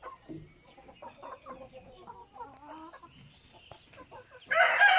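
Chickens clucking in short, soft calls, then a rooster starts crowing loudly near the end.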